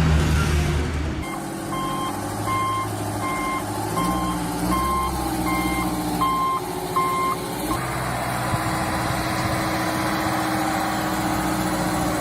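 Heavy truck's reversing alarm beeping about eight times, a little under one beep a second, over the steady running of the truck's engine; the beeps stop about eight seconds in while the engine runs on.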